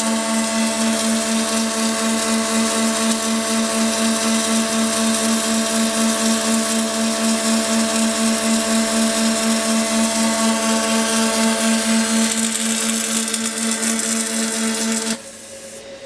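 Double-head circular seam welding machine running: a steady electrical hum over a hiss, with a slight regular pulsing. It cuts off suddenly near the end.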